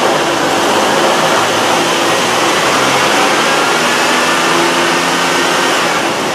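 Nissan Frontier's 3.3-litre V6 held at raised revs under the hood, a steady even run. It now runs smoothly on a new fuel injector in place of the misfiring one.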